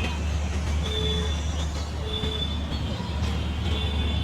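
Chitra Express passenger train rolling through the station: a steady low rumble, with three short, high-pitched wheel squeals.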